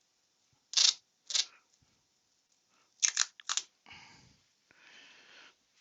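Adhesive tape being pulled off the roll in short, sharp rips: two single pulls, then a quick run of three or four, followed by softer rustling near the end.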